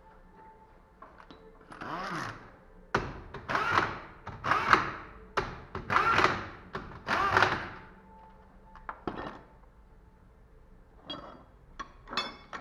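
A series of about five heavy knocks, a second or so apart, from tools and metal parts being worked on during a car differential repair, followed by a few lighter clicks near the end.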